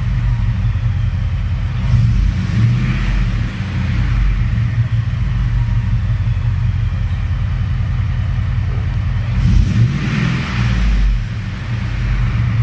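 Ford pickup's engine running through a temporary exhaust with the resonator cut off and the pipe left hanging open behind catless headers: a steady low rumble, revved briefly about two seconds in and again about ten seconds in.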